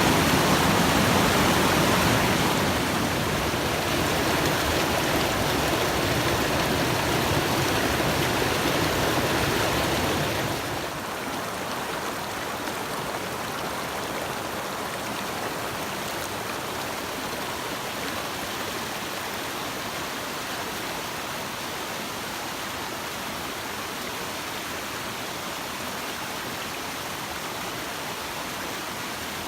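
Mountain stream rushing over rocks, a steady wash of water noise that drops in level twice, about two and a half and about ten seconds in.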